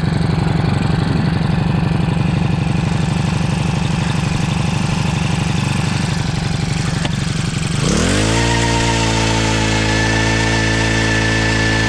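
A vehicle engine running at a steady speed. About eight seconds in, it revs up and holds a higher, steady speed.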